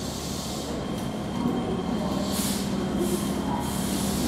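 Keihan 1000 series electric train pulling into a station platform and slowing to a stop, its running hum growing slightly louder, with a short hiss about two seconds in.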